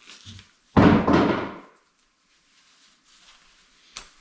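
A single loud bang or slam about a second in that rings out briefly, followed near the end by a short sharp click.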